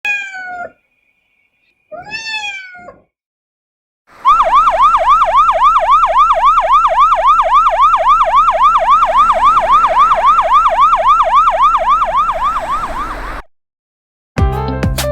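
Two short meow-like calls, then a rapid electronic siren-like warble, about four falling sweeps a second, lasting about nine seconds and cutting off suddenly.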